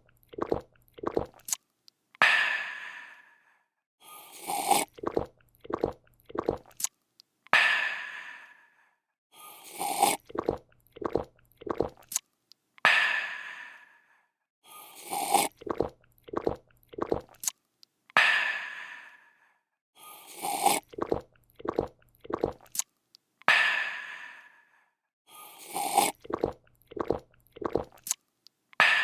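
A person slurping a drink, gulping it down in about four quick swallows, then letting out a refreshed 'aah' that fades away. The same clip repeats about every five seconds.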